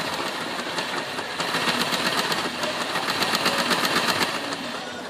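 Model railway locomotive's small electric motor whirring steadily with its wheels spinning in place on the rails, too weak to pull the Tri-ang track cleaning car; run like this the motor risks burning out. The sound eases a little near the end.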